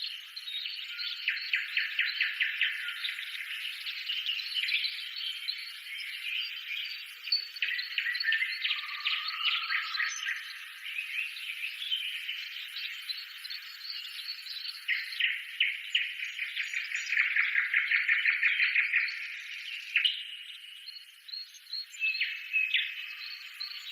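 Small birds chirping and trilling together in quick runs of notes, a busy chorus of many calls with no low sounds under it; the trills are densest near the middle and again about three quarters through.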